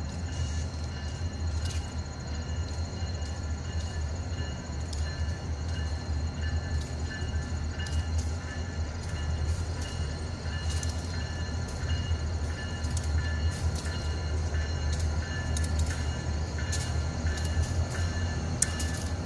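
Diesel locomotives of a freight train approaching slowly, with a steady low engine rumble and scattered clicks that come more often near the end.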